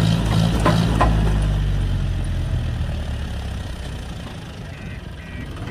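Heavy diesel engine idling, loud at first and fading away over the first few seconds, with a couple of short clanks about a second in. A string of short high beeps repeats near the end.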